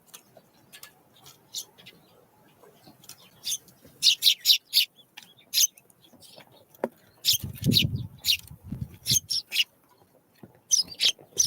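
Small wild birds giving short, sharp chirps in quick clusters, with a low rumble lasting about two seconds, starting about seven seconds in.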